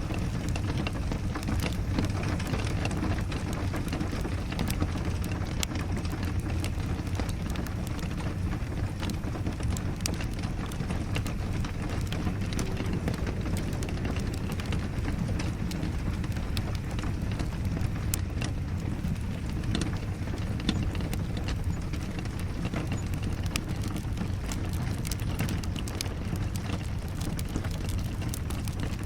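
Steady rain together with a crackling wood fire: a constant low rushing noise with scattered sharp crackles and pops.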